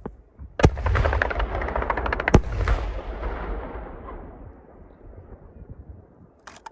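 Fireworks shells bursting: a sharp bang about half a second in sets off a dense run of rapid crackling reports over a low rumble, with a second loud bang about two and a half seconds in. The sound then fades away, and a short bang comes near the end.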